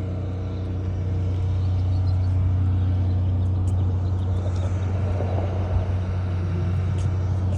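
A steady low mechanical hum with an even, pitched drone, getting a little louder about a second in, with a few faint ticks over it.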